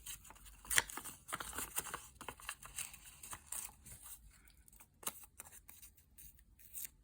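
Paper scraps being sorted and handled by hand: a run of quick rustles and light ticks that thins out about halfway through.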